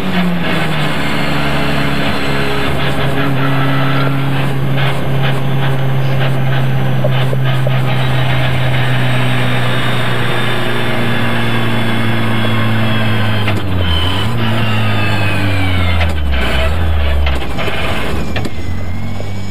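Opel Adam rally car's engine and drivetrain heard from inside the cabin, running at steady, moderate revs with a high gear whine over it. A bit past two thirds of the way in, the engine note and the whine drop as the car slows and the revs fall toward idle.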